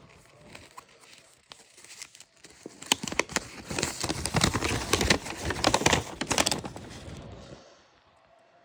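Paper instruction sheet being handled and unfolded, crinkling and rustling with many small sharp crackles. It is loudest in the middle and dies away near the end.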